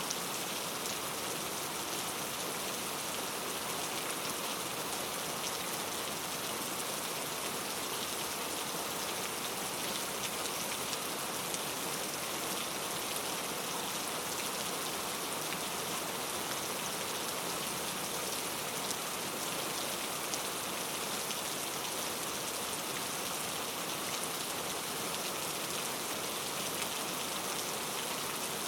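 Steady rain falling on foliage in a rainforest, a dense, even hiss with faint individual drops ticking through it.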